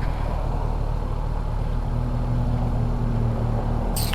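Kawasaki ZX-10R's 998 cc inline-four engine running at low, steady revs, as at idle or slow rolling. A steady hum joins about halfway through, and there is a brief hiss just before the end.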